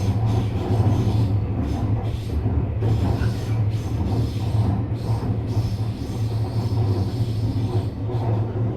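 JR West 321 series electric train running, heard from inside the car: a steady low rumble of wheels and running gear, with irregular short clatters from the wheels on the track.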